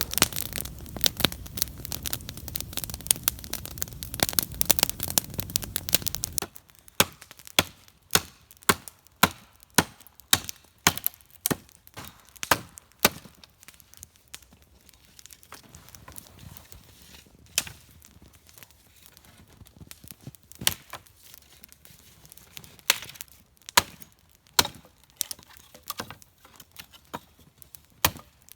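Wood campfire crackling as it catches: dense crackling over a steady rush for the first six seconds or so, then sharp, irregular pops and cracks from the burning wood.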